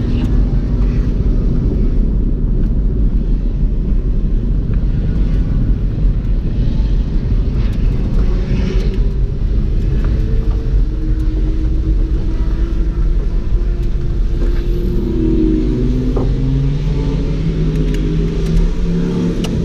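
Car engine rumbling at low speed, heard from inside the cabin, as the car rolls slowly along; in the last few seconds a steadier pitched engine note comes through as it settles toward idle.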